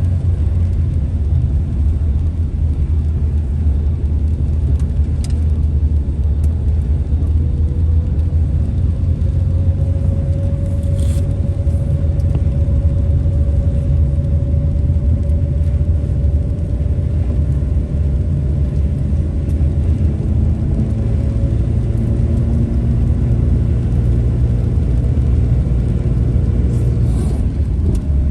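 Steady low rumble of a car driving, with road and engine noise heard from inside the cabin and a faint hum that drifts slowly in pitch. A few faint ticks come through.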